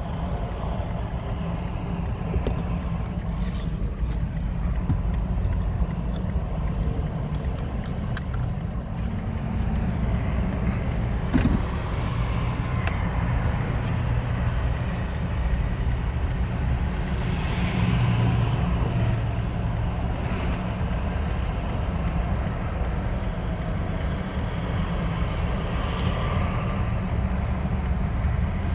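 Steady low rumble of road vehicles running, with a short knock about eleven seconds in.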